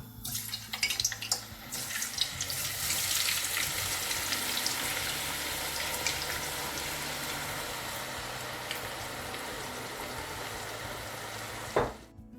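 Potato chips deep-frying in hot oil. A burst of sharp crackling as they go in, settling into a steady sizzle that eases slowly and then cuts off abruptly near the end.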